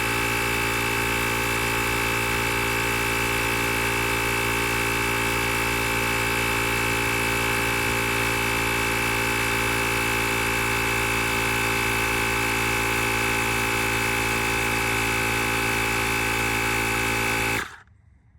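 A motor running steadily with a buzzing hum, then switched off abruptly near the end.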